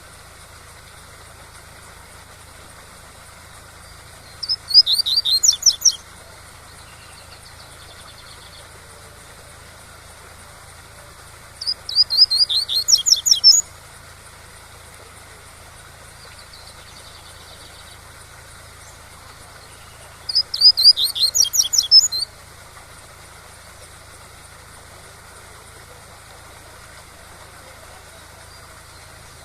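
Double-collared seedeater (coleiro) singing its tui-tui song: three fast trilled phrases of about two seconds each, some eight seconds apart, over the steady rush of a waterfall.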